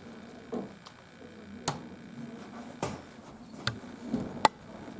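A few separate sharp clicks and taps, about four over several seconds with the loudest near the end, from handling the partly reassembled laptop while its new screen is tested.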